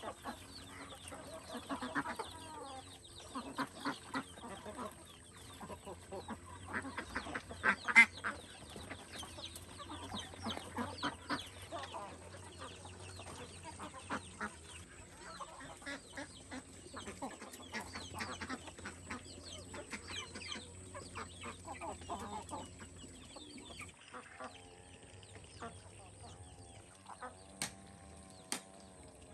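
Chickens clucking, with scattered short clicks and knocks among the calls; one sharp knock about a quarter of the way through is the loudest sound.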